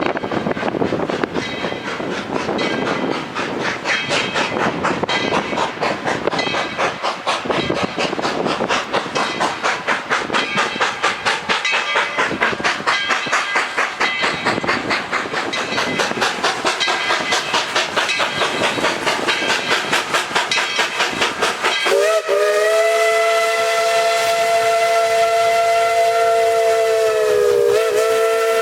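Steam locomotive No. 12 working its train, with quick, even exhaust chuffs. About three-quarters of the way through, its multi-tone steam whistle blows a long steady blast that drowns the chuffing, dips briefly near the end and sounds again.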